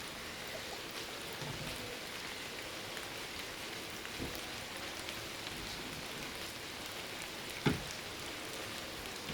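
Steady rain falling, with a few light knocks on top, the sharpest one near the end.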